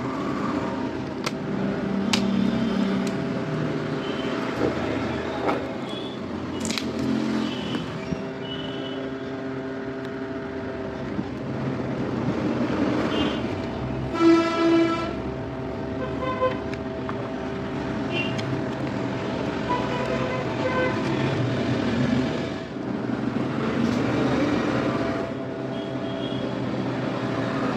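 Street traffic with vehicle horns honking now and then, the clearest toot about halfway through, over a steady hum and a few sharp clicks.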